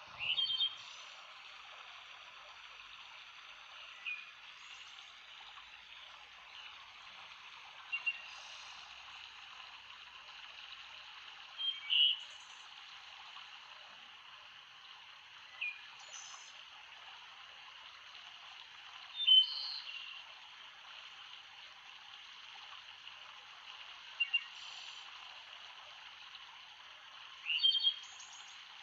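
Steady murmur of a flowing stream, with a bird giving short chirps about every four seconds over it.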